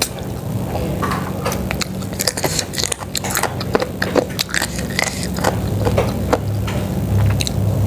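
A person eating soto ceker (chicken-feet soup) close to the microphone: irregular biting, chewing and lip-smacking clicks. A steady low hum runs underneath and grows stronger near the end.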